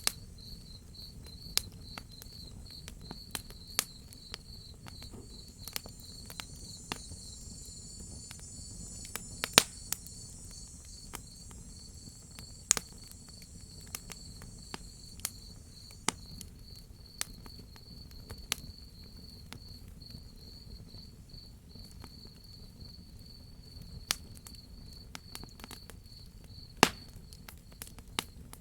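Crickets chirping in a steady, evenly pulsed high trill, with sharp pops and snaps from a crackling wood fire scattered throughout, the loudest pops about a third of the way in and near the end.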